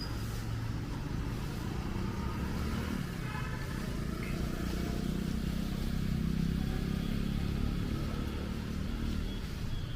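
Street traffic: a motor vehicle's engine passes, growing to its loudest about two thirds of the way through, over a steady low rumble of road noise.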